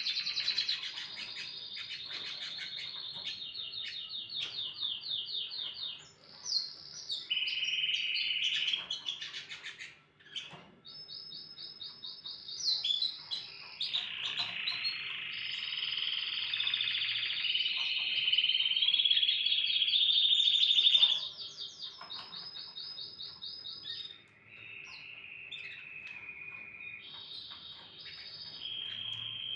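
A domestic canary singing a long song of fast trills and rolling tours, each phrase held a second or two before it switches to another pitch, with brief breaks between some phrases.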